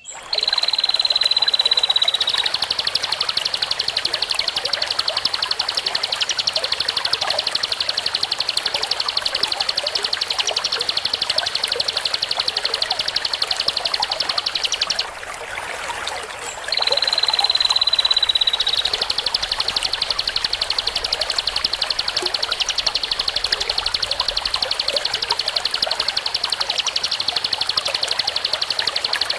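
Song-tutor (masteran) recording of a high, fast trilling call for training green leafbirds and white-rumped shamas. Each phrase opens with a clear tone sliding slightly down for about two seconds, then runs into a rapid buzzing trill. It breaks off about halfway through and starts over the same way.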